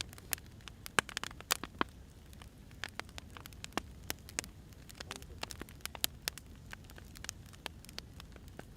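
Burning firewood crackling: irregular sharp pops and snaps, a few louder ones, over a low steady rumble of the fire.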